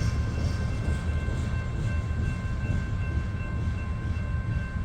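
Low, steady rumble of a loaded coal train rolling away, with several steady high ringing tones held over it.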